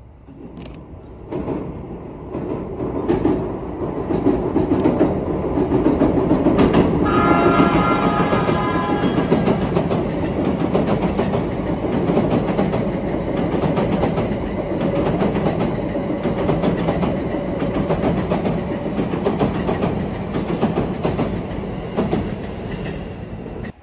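JR East E233 series electric train with double-deck green cars running across a steel girder railway bridge: a loud, steady rumble and clatter that builds over the first few seconds. About seven seconds in, it sounds its horn for about three seconds. The sound cuts off suddenly at the end.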